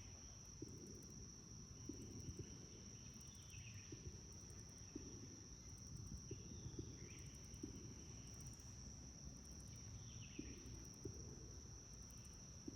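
Faint insect chorus: a steady high-pitched buzz with quick pulsed trills above it.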